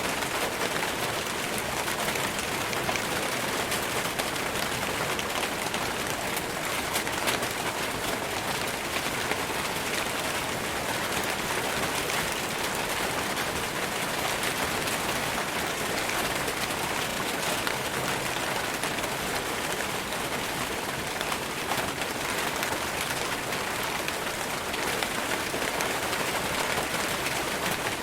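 Steady rain falling on forest leaves: an even hiss made of countless fine drop patters, with no change in strength.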